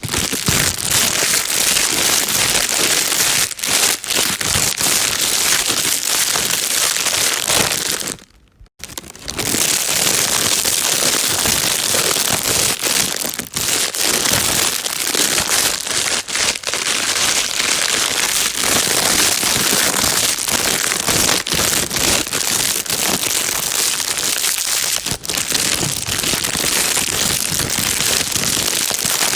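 Plastic bag being crinkled and crumpled continuously, a dense crackling rustle with a brief break about eight seconds in.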